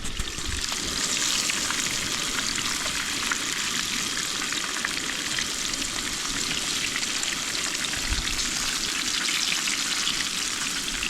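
Crumbed snapper pieces frying in a pan: a steady sizzle with fine crackling.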